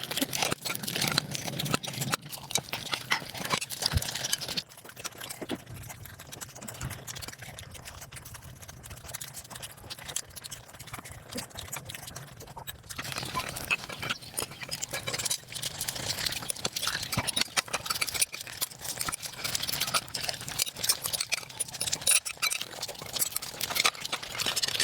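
Close-miked eating sounds: a dense run of rapid chewing and wet mouth clicks, quieter for several seconds in the middle of the stretch.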